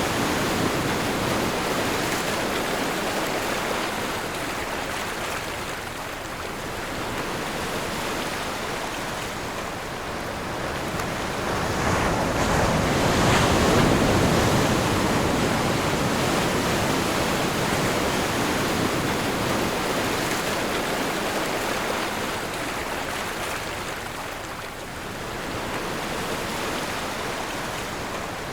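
Ocean waves rolling onto a shore, a steady wash of surf that swells and ebbs slowly. The biggest wave builds about twelve seconds in and breaks a couple of seconds later.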